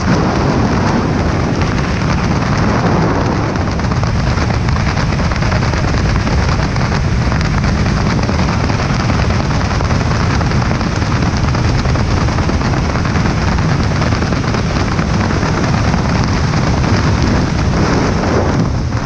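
Loud, steady rush of wind buffeting the camera microphone during a skydive.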